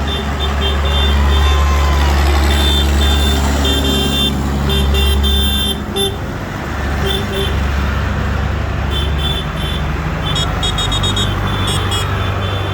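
Tractor engines running as tractors drive past, a loud steady low rumble that eases about halfway through, with broken high tones coming and going above it.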